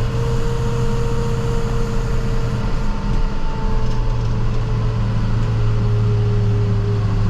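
International TerraStar plow truck running steadily while driving, heard inside the cab: a steady engine drone with a steady whine above it.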